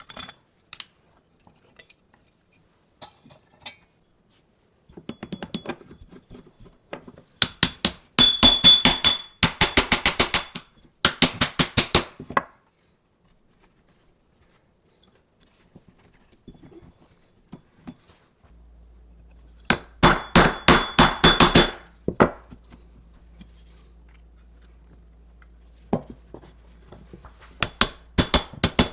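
Bursts of rapid, sharp metallic taps and clinks, hard metal parts being struck or knocked against each other, twice in quick runs of several seconds, with scattered single taps between. A faint steady low hum comes in about two-thirds of the way through.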